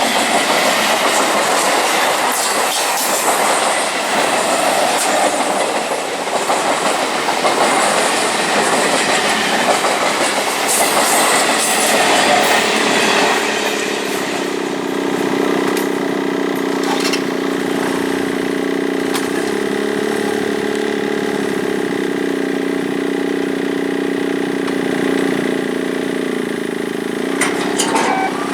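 Electric multiple unit local train running past: wheels clattering over the rail joints with a dense rumble of the coaches, loudest in the first half. From about halfway it settles into a steadier drone with low held tones.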